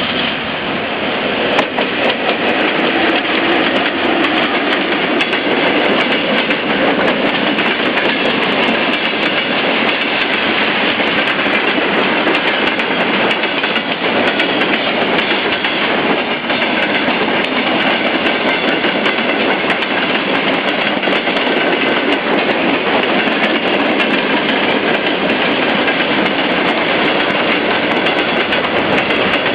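Russian freight train rolling past at speed, a loud steady rumble and rush of wagons with rapid, uneven clicking of wheels over the rail joints. It swells over the first couple of seconds, then holds steady.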